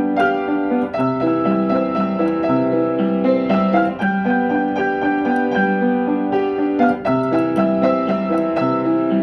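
Solo piano or electric piano music: a slow, gentle melody over sustained chords, the notes changing about once a second.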